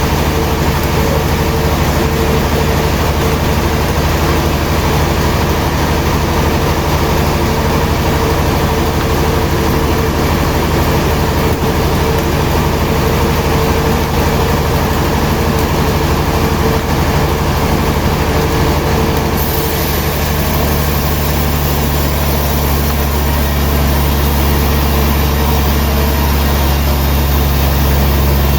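Heavy sawmill machinery running with a loud, steady hum and mechanical rumble. The high hiss changes abruptly about two-thirds of the way through.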